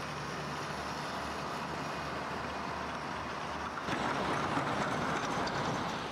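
A large vehicle's engine running with a steady low hum under a wash of noise, growing louder from about four seconds in, then easing off.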